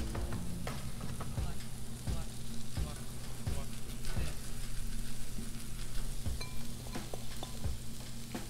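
Shredded russet potato sizzling in butter and oil on a hot Blackstone flat-top griddle, a steady hiss with scattered small crackles as more handfuls are dropped onto the pile and pressed down.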